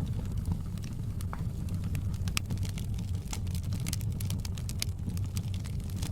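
Wood fire crackling in a fireplace: frequent, irregular sharp pops and snaps over a steady low rumble of the burning fire.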